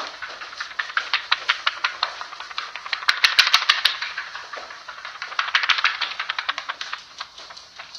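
Rapid, irregular clicking and tapping, several sharp clicks a second, loudest about three seconds in, from a played-back eerie holophonic audio recording.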